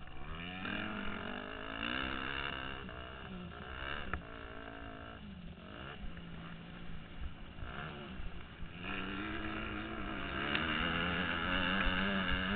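Motocross dirt bike engine being ridden hard, its pitch climbing and dropping again and again as the throttle is opened and shut. It is held at high revs and gets louder in the last few seconds. Heard from the rider's helmet.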